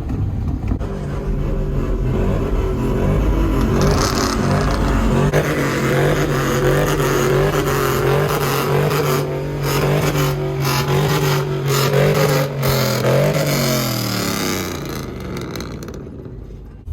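A loud truck engine and exhaust held at steady revs, building over the first few seconds. Near the end the pitch drops and the sound fades as the truck passes and moves away.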